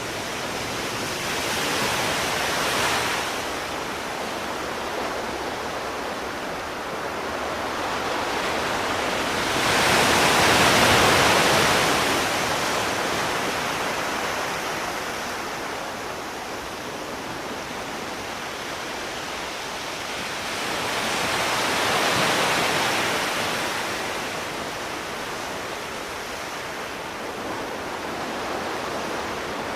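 Sea surf: waves washing in over a steady hiss of water, swelling three times about ten seconds apart, the loudest about ten seconds in.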